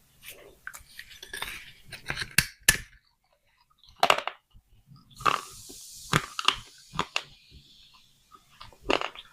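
Small clay pots clinking and cracking as they are handled and broken: a run of sharp, irregular clicks and cracks with some gritty crumbling in between.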